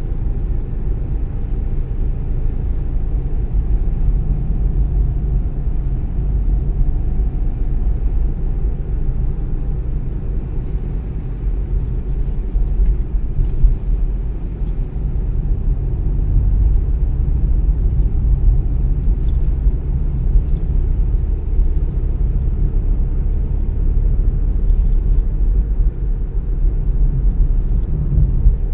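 Car driving along a road: a steady low rumble of tyres and engine, with a few faint clicks now and then.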